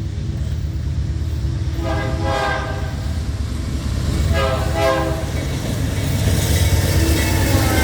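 Locomotive air horn on a BNSF C44-9W sounding two blasts of about a second each, over the low rumble of an approaching diesel freight train. Near the end, hissing wheel and rail noise grows louder.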